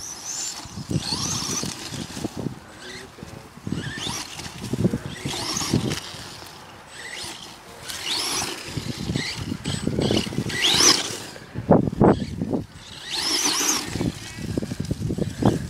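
Brushless electric motor of an RC monster truck whining in about five bursts of throttle, its pitch rising and falling with each burst, over a rough, gritty noise from the running truck.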